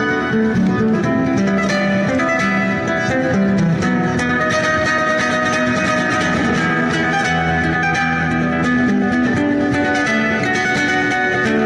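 Guitar played solo, fast plucked and strummed notes in a flamenco style, running continuously with no pause.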